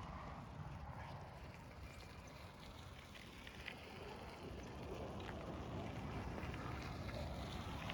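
Wind rumbling on the microphone of a camera riding along on a mountain bike, with faint ticks and rattles from the bike and trail.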